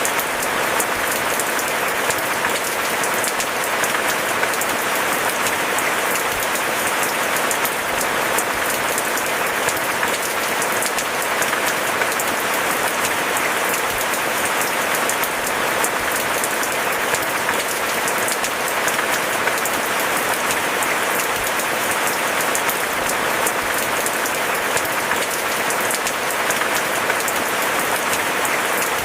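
Steady rain falling: an even, dense hiss of countless small drops that does not swell or fade.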